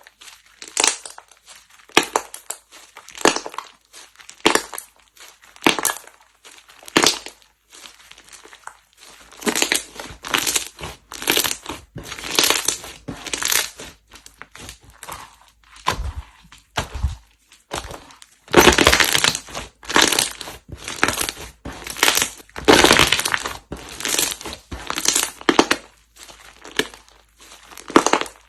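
Slime being squeezed and pressed by hand, giving short crunchy crackles about once a second. About a third of the way in these turn into longer, denser crunching squeezes, loudest past the middle.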